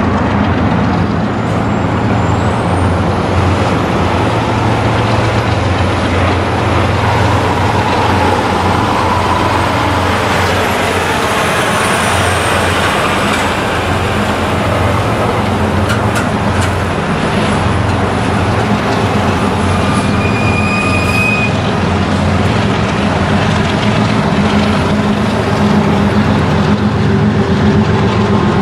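A freight train rolls past with a steady, loud diesel locomotive drone over the rumble of the train, with a few faint high squeals.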